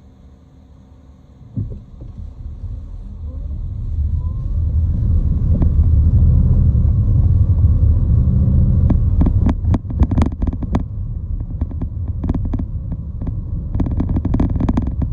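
A deep, steady rumble of a large vehicle swells up over a few seconds after a single knock, then goes on with quick rattling clicks over it.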